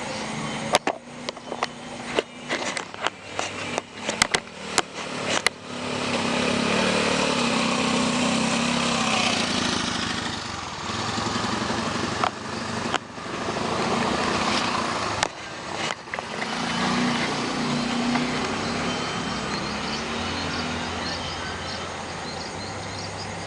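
A quick run of sharp clicks or knocks, then motorcycles passing one after another, their engine noise swelling and fading several times.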